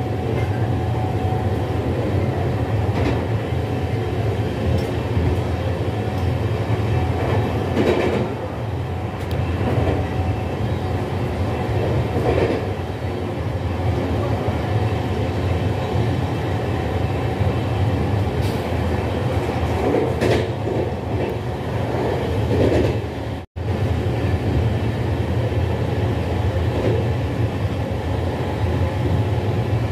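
LHB Vistadome passenger coach running on the rails, heard from inside: a steady rumble with occasional brief clatters. The sound cuts out for an instant about two-thirds of the way through.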